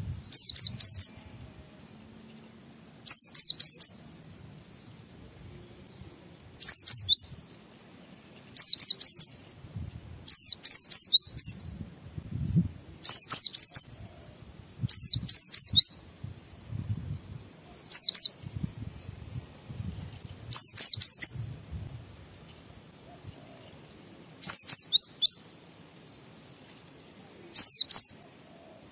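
White-eye (pleci) singing in short bursts of quick, high twittering notes that each fall in pitch. The bursts last about a second and come about eleven times, every two to three seconds.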